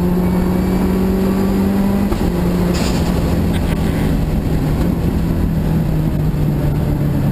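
Subaru WRX's turbocharged flat-four engine heard from inside the cabin under way, with tyre and road noise beneath it. The engine note climbs a little, drops about two seconds in, then falls slowly.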